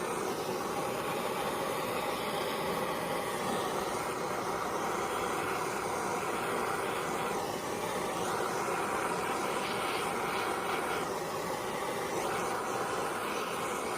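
Handheld blowtorch flame blowing steadily as it scorches a wooden planchette.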